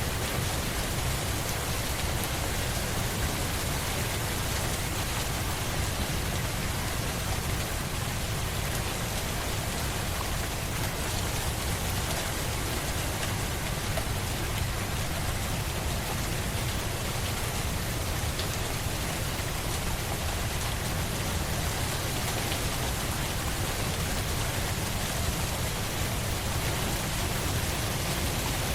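Steady rain falling, an even hiss with a low rumble underneath that does not change.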